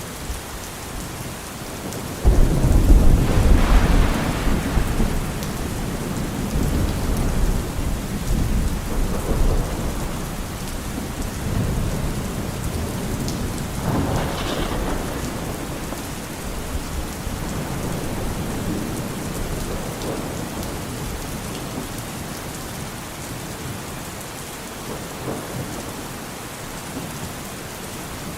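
Steady rain with thunder. A loud, deep rumble breaks out about two seconds in and rolls off over several seconds, and a second, weaker roll comes in about halfway through.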